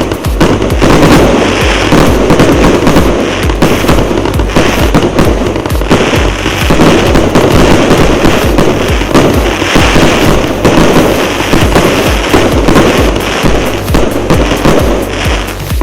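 A consumer firework cake, the СС8865 "Bold Beauty" battery, firing shot after shot in a dense, continuous string of bangs and pops with no pause.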